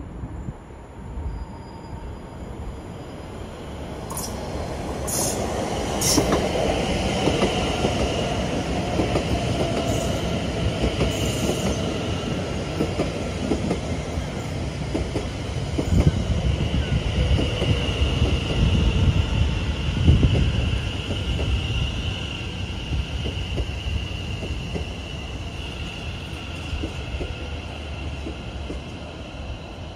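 Greater Anglia electric multiple unit running through the station: a rumble builds over the first few seconds with a high wheel squeal on the curved track and a motor whine that slowly falls in pitch, then fades near the end.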